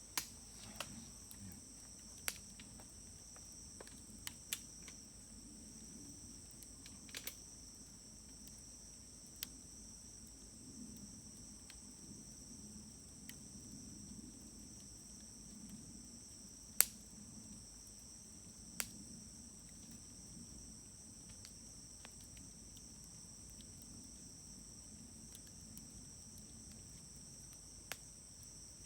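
Wood fire burning with a soft low rustle and scattered sharp pops and crackles, the loudest about 17 seconds in. Insects trill steadily throughout.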